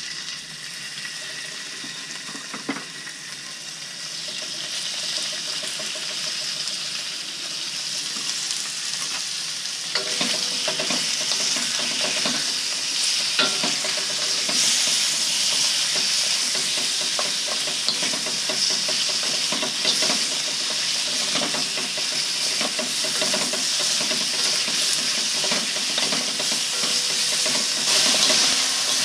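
Diced raw chicken sizzling in hot oil in a 35 cm stainless steel wok as the pieces go in, the frying growing louder. From about ten seconds in, utensils scrape and knock against the wok as the chicken is stirred.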